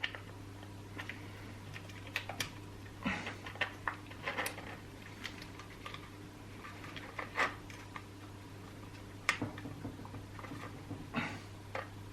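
Scattered small clicks and knocks of chainsaw parts being handled and fitted while the carburetor goes into the housing, over a steady low hum.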